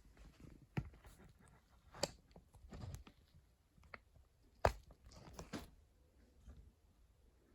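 Handling noise: a few sharp clicks and knocks with some rustling between them, the loudest about four and a half seconds in.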